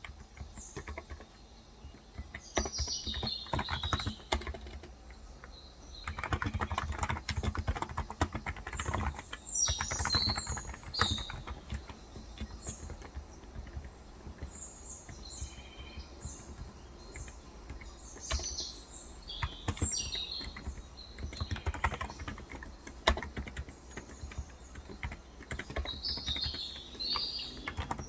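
Typing on a Cox Endeavour tenkeyless electrostatic capacitive keyboard with light 35 g switches, in runs of fast keystrokes broken by short pauses. Birds chirp with short high calls throughout.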